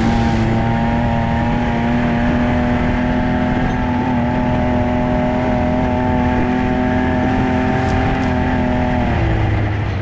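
Side-by-side UTV engine running at steady high revs under way, its pitch holding level, then dropping as the throttle eases off about nine seconds in.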